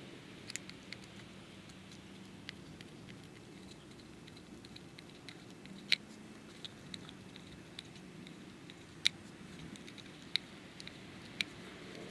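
Old double-sided adhesive being scraped and picked off car reflectors by hand: scattered light clicks and ticks, with a few sharper ones, over a faint steady hum.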